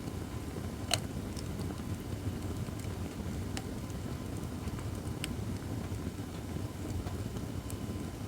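Acacia firewood burning in a fire pit stand: a steady low rumble with scattered sharp crackles and pops, the loudest about a second in.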